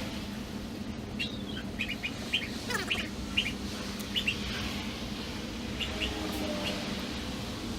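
Small birds chirping in short, high calls, in clusters about a second in and again around six seconds, with one falling call near three seconds, over a steady low hum.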